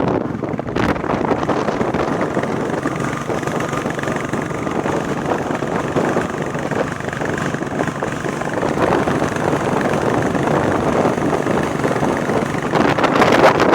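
Royal Enfield Bullet Classic 350 single-cylinder engine running on the move, mixed with wind and road noise, growing louder about a second before the end.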